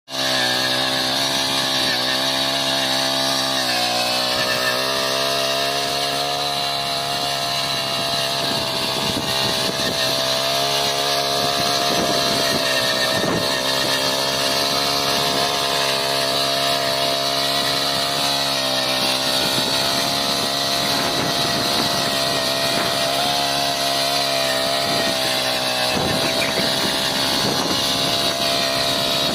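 Small four-stroke petrol engine of a power weeder running steadily, with a brief dip in speed about four seconds in.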